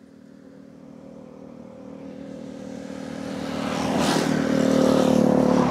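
A motor vehicle approaching along the road and passing close by: its engine hum grows steadily louder and is loudest near the end.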